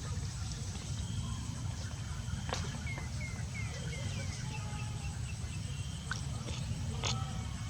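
Steady low rumble, with a bird's quick run of about six short falling chirps about three seconds in and a few sharp clicks scattered through.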